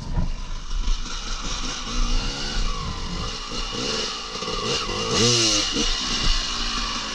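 Off-road motorcycle engine revving up and down in short, uneven blips, with a knock near the start.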